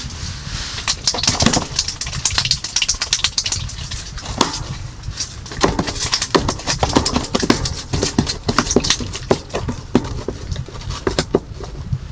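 Many irregular sharp clicks and crunches, some louder than others, over a steady low rumble.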